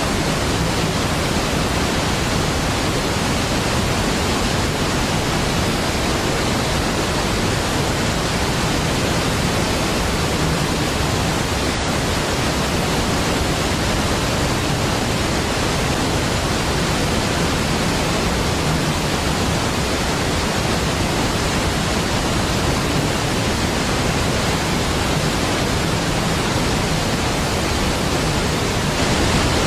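Large waterfall pouring, a steady, unbroken rush of water noise spread across low and high pitches.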